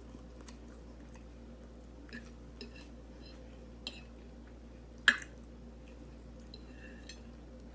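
Quiet mukbang eating sounds: soft wet mouth clicks and squishes from chewing breakfast food, with one sharper click about five seconds in.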